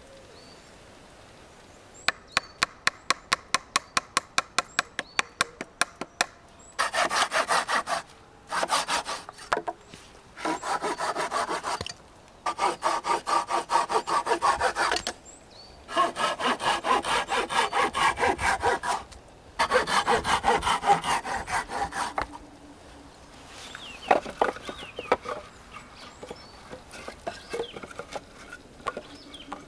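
Hand saw cutting through wood in six bouts of quick back-and-forth strokes, each a few seconds long with short pauses between. Before the sawing comes a run of sharp, evenly spaced ticks, about four or five a second. Fainter scattered knocks and handling noises follow it.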